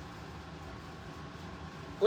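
Steady low hum and hiss of background room noise, with no distinct event.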